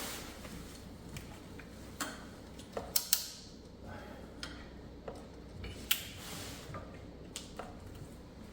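Wrench working a fastener deep in the engine bay: a handful of sharp metallic clicks and taps at irregular intervals, a few close together around three seconds in.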